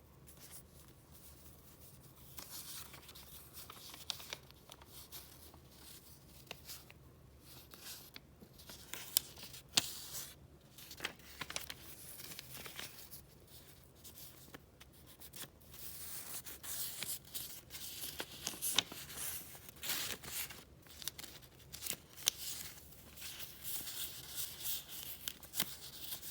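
Paper being handled: sheets rustling and crinkling, with many short, crisp snaps and tearing-like rips. The handling gets busier and louder in the second half.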